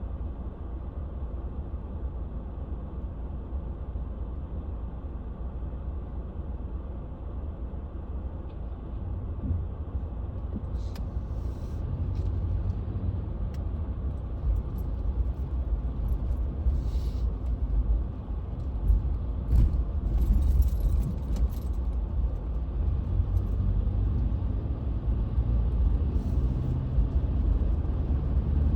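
Car driving, heard from inside the cabin: a steady low rumble of engine and tyre noise that grows louder about a third of the way in, as if the car speeds up. Light scattered clicks and rattles come in over the second half.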